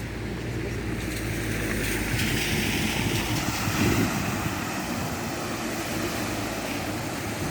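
A vehicle passing along a flooded, rain-soaked street, its tyres hissing through the water; the hiss swells about two seconds in and fades away, over steady wind rumble on the microphone.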